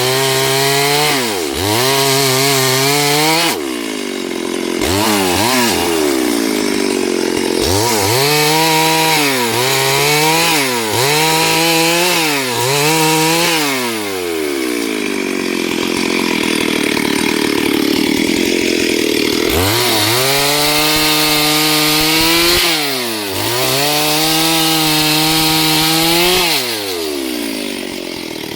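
STIHL 72cc two-stroke chainsaw, the engine revving up and dropping back again and again as the throttle is worked, with a stretch of about five seconds in the middle of steady cutting through wood.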